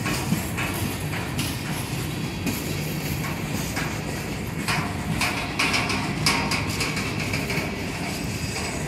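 Freight cars of a slow-moving CSX train rolling by, including open autorack cars: steel wheels clicking over the rail joints with metallic clanks and squeaks, busiest about halfway through.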